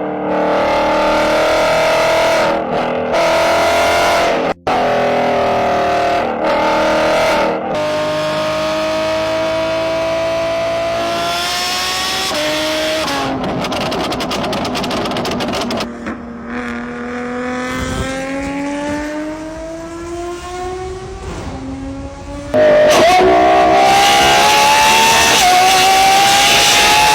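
Racing car engines at high revs, the pitch climbing under acceleration and dropping back at each gear change, in several spliced clips with abrupt cuts. It is loudest in the last few seconds.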